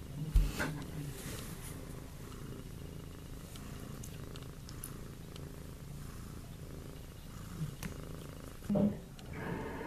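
Cat purring steadily, with a sharp thump about half a second in and a brief louder sound just before the end.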